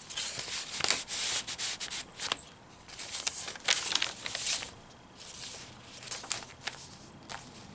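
Paper rustling and rubbing as the pages of a handmade junk journal are turned and handled, in irregular bursts with light taps, loudest about a second in and again around three to four seconds in.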